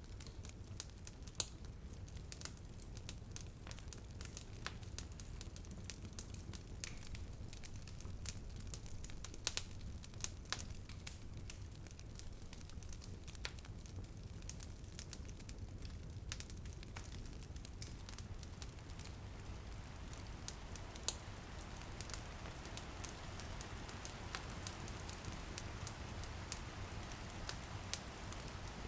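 Wood fire crackling, with many small sharp pops over a steady low rumble. About two-thirds of the way in, light rain pattering on a window rises into a steady hiss beneath the crackles.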